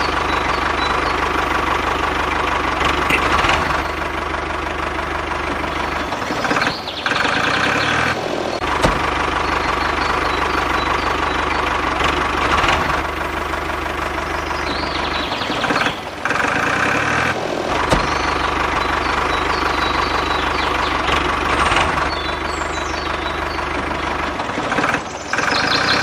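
Motor of a DIY miniature model tractor running steadily under load. Its dense mechanical drone drops out briefly several times.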